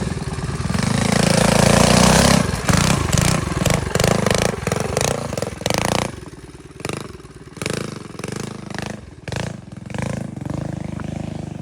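Minibike engines racing: loud running for the first two and a half seconds, then a quick run of throttle bursts on and off, then quieter engines revving up and down repeatedly.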